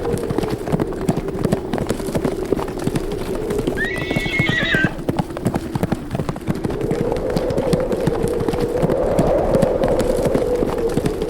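Horses running, their hoofbeats thudding fast and continuously, with one horse whinnying about four seconds in. A howling wind rises and falls underneath.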